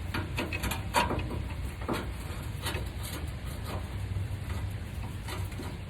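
Scattered light clicks and taps of metal: a slotted oxygen-sensor socket is being fitted over an O2 sensor on the exhaust, with a low steady hum underneath.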